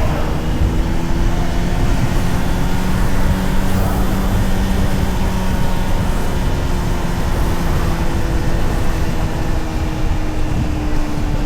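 Honda CBR600RR's inline-four engine running at a steady, high road speed under wind rush, its pitch sinking slightly in the second half.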